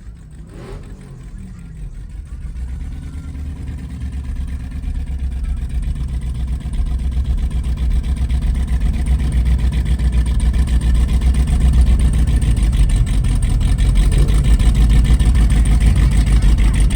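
Car engine running with a low, pulsing exhaust note, growing steadily louder over the first eight seconds or so and then holding.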